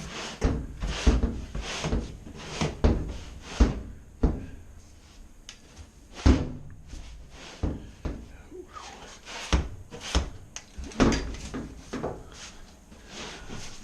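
Irregular knocks, bumps and clatter of things being handled and moved around in a cramped laundry area, a dozen or so sharp strikes with short scraping between them.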